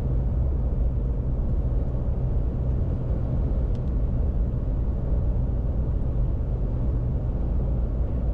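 Steady road and engine rumble of a car driving at an even speed, heard from inside the cabin.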